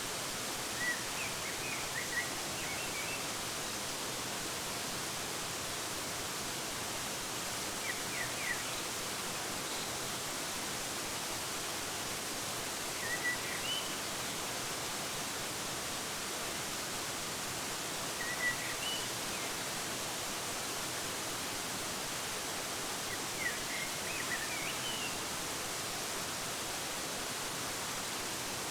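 Waterfall running in a steady, even hiss, with small birds chirping over it in short clusters of quick high notes that come back about every five seconds.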